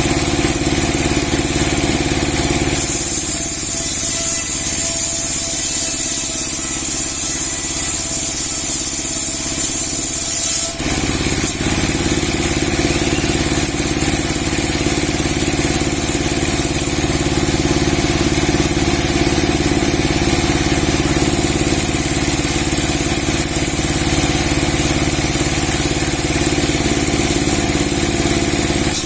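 Large 30 hp sawmill machine with a 60 cm steel blade running with a steady engine hum. About three seconds in a loud high hiss joins it for several seconds, then stops abruptly.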